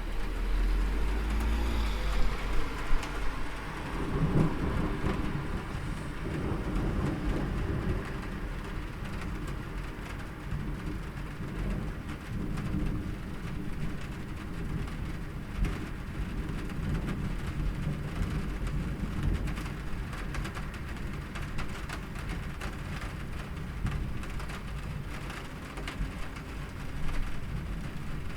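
Steady rain with thunder: a deep rumble of thunder over the first few seconds, then low rumbling under the rain.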